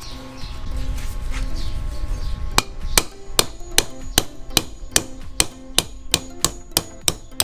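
Hammer striking steadily about two and a half times a second, a run of about a dozen sharp blows starting some two and a half seconds in, knocking a needle bearing out of a Yamaha DT125 two-stroke crankcase.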